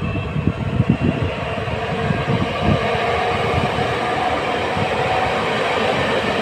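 Electric multiple units passing at speed, one running close by: uneven low wheel-on-rail thuds give way to a steady rolling rumble with a faint motor whine as the nearer unit goes past.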